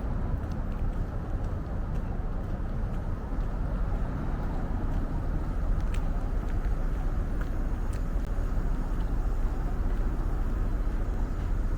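Steady low rumble of outdoor street ambience, typical of traffic around a station, with a few faint clicks.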